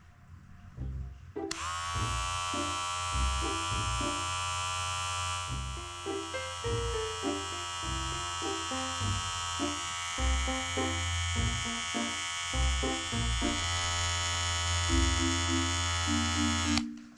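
Electric paw-pad pet clipper switched on about a second and a half in, running with a steady buzz, and switched off near the end. Light background music with short mallet-like notes plays underneath.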